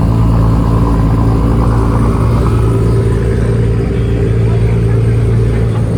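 Car engine running steadily: a constant low drone that holds the same pitch throughout.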